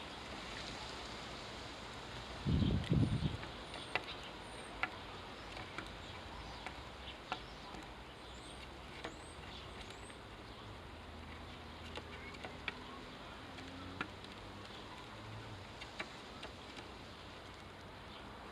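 Quiet garden ambience: scattered small clicks and taps under a faint steady hiss, with a few very short, high, rising chirps. About two and a half seconds in comes a brief low fluttering rumble, the loudest sound here.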